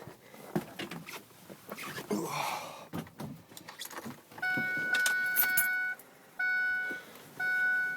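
Keys jangling and clicking in the ignition of a 2006 Ford F-350. Then the cab's electronic warning chime sounds: one steady tone for about a second and a half, then pulses about once a second while the diesel waits on its glow plugs before cranking.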